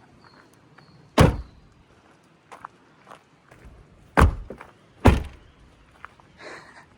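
Three heavy thuds of the Lexus LX 470's doors being shut, about a second in, then twice close together around four and five seconds in, with small clicks and knocks between.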